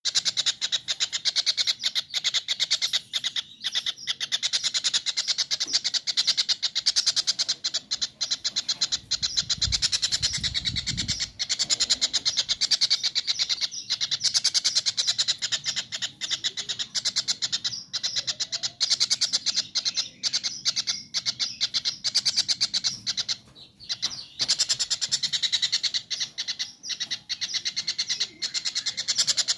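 Kingfisher (cekakak) calling: a long, unbroken run of rapid, harsh, high-pitched repeated notes with only brief pauses. A short low rumble comes in about ten seconds in.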